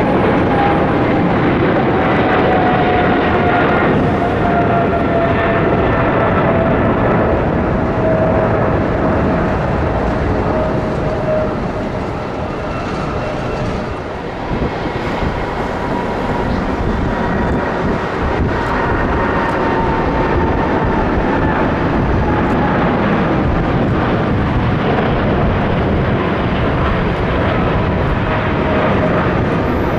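Jet airliner engines passing close: a steady rumble with a whine that slowly falls in pitch. About halfway through the sound dips briefly, then another engine whine takes over until the end.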